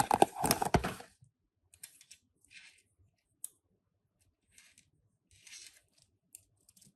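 Toy packaging being opened by hand: about a second of crinkling and tearing, then scattered small clicks and brief rustles.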